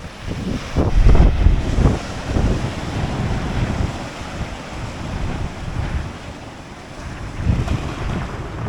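Gale-force wind buffeting the microphone over rough sea breaking on a rocky shore. Irregular gusts, loudest about a second in and again near the end.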